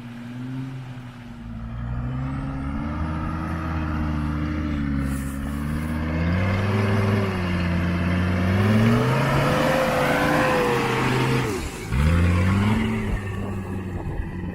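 Mercedes G-Class off-roader's engine revving under load, its pitch wavering up and down and climbing to a peak about ten seconds in. Near the twelve-second mark it drops away sharply, then revs up again for a moment.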